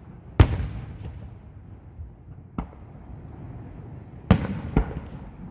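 Aerial firework shells bursting: four sharp booms, each trailing off in echo. A big one comes about half a second in and a smaller, sharper crack near the middle. Near the end two loud bursts follow close together.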